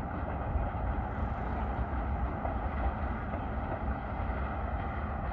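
Freight train passing, a steady low rumble from its diesel locomotives and cars on the rails.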